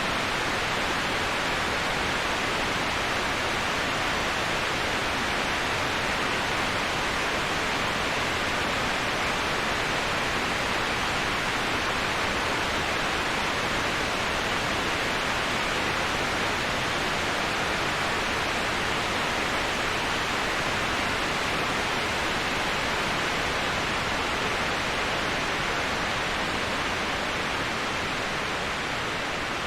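Waterfall white noise: a steady, unbroken rush of falling water, heaviest in the mid-to-high range, easing slightly near the end.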